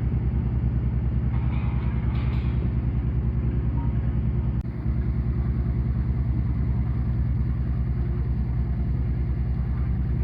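Ship's engine throbbing steadily: a deep, even pulsing rumble, with a brief dip about four and a half seconds in.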